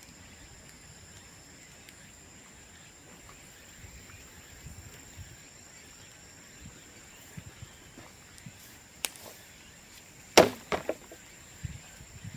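Bamboo burning in an open bonfire: faint scattered crackles, a sharp crack about nine seconds in, then a loud pop about ten seconds in followed by a few smaller cracks, as sealed bamboo sections burst in the heat.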